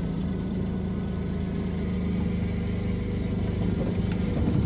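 Ford 4.9L (300) inline-six engine of an OBS F-150 pickup running steadily under a heavy load of about 1,600 pounds of scrap metal.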